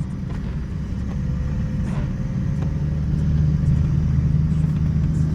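Truck engine running steadily under way, a low even drone that grows slightly louder partway through.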